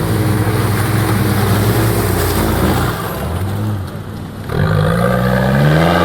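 Off-road 4x4's engine running hard at steady revs, easing off about three seconds in, then revving up again with a rising pitch from about four and a half seconds.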